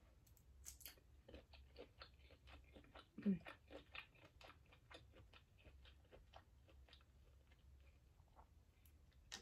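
Close-miked chewing: faint, wet mouth clicks and smacks, a few a second, as someone eats soft food such as mashed potatoes, with one louder mouth sound a little after three seconds in.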